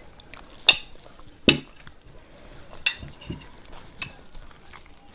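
Cutlery clinking against a plate four times while eating, each a short sharp ringing clink.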